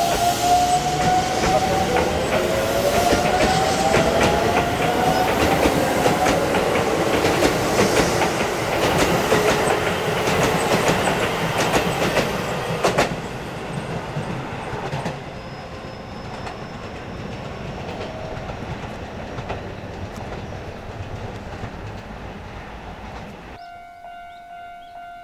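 Electric commuter train pulling away: a rising motor whine as it accelerates, with wheels clicking over rail joints, then the sound fades as the train moves off.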